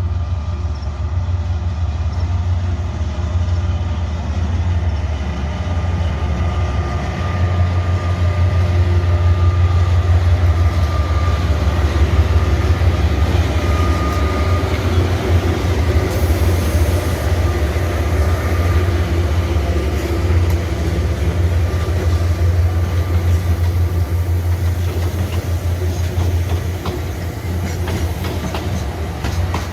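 Freight train of five diesel-electric locomotives, led by a GE U20C, hauling cement wagons past: a steady, loud, deep engine drone with the rumble of wheels on the rails, swelling about a third of the way in.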